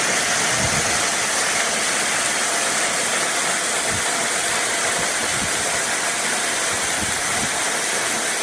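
Small waterfall, swollen with heavy rain, rushing steadily: an even hiss of falling water.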